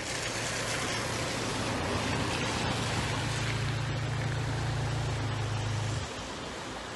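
A steady rushing noise with a low engine hum under it that grows louder and then cuts off suddenly about six seconds in.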